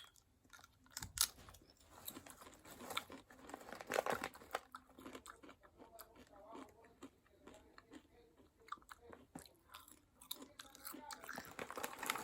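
Someone chewing seaweed-flavoured Lay's potato chips: faint crisp crunches scattered throughout, loudest about a second in and again about four seconds in.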